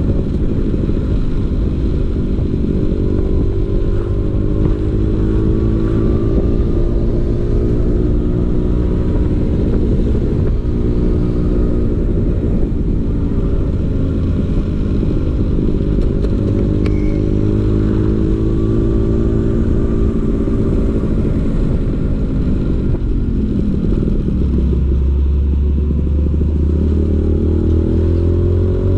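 Vespa PX 150's two-stroke single-cylinder engine running through a DRC Victory racing exhaust, its revs repeatedly rising and falling. Near the end the revs drop low and climb again.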